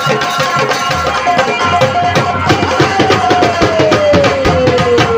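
Live folk band music driven by quick hand-drum strokes in a dense, steady rhythm. About three seconds in, a single held melody note slides slowly downward.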